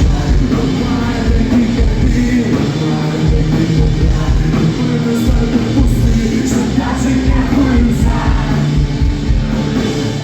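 A loud live rock band playing, with singing over the music.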